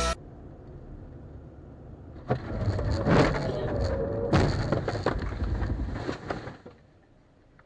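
Vehicle noise on a dashcam: a low road rumble, then about two seconds in a sudden loud crash of knocks and scraping noise, which fades away near the end.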